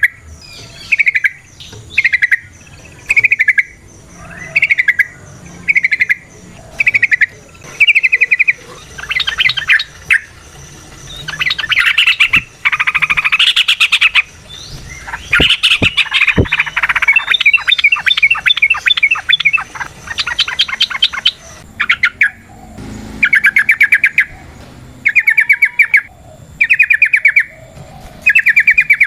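Yellow-vented bulbul (trucukan) singing: short bubbling phrases repeated about once a second, breaking into a long run of fast, busy notes in the middle before going back to short phrases.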